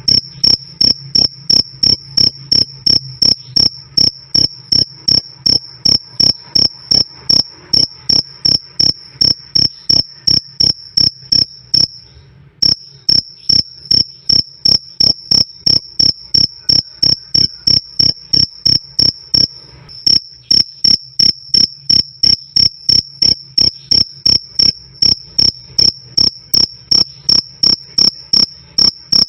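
Male cricket chirping loudly and steadily: a clear, high-pitched 'krik' repeated about two and a half times a second, with one short pause about twelve seconds in.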